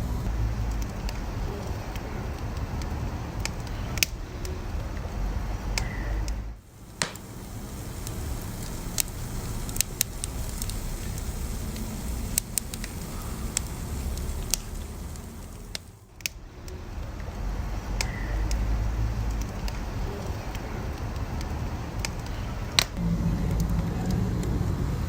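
Wood fire crackling: scattered sharp pops and snaps over a steady low rumble of burning. The sound dips briefly twice, about a quarter and two thirds of the way through.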